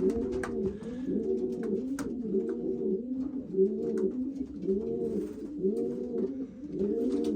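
Racing pigeons cooing in the loft, several birds at once, their repeated rising-and-falling coos overlapping without a break, with faint scattered clicks among them.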